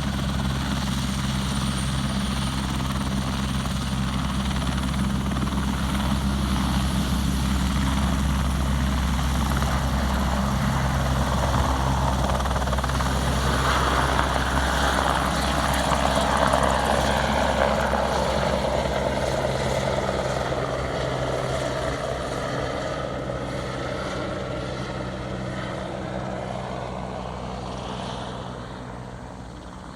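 Crop-spraying helicopter flying past: a steady rotor and engine drone that grows louder to about the middle, then drops in pitch and fades as it moves away.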